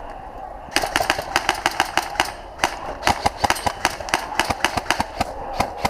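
Airsoft electric guns firing a rapid, uneven string of sharp snapping shots, several a second, starting about a second in.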